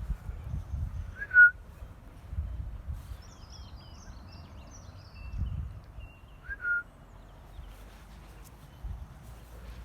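Birds calling in the morning: faint high twittering through the middle, and two short, loud whistled notes about five seconds apart. Low rumbling noise sits underneath.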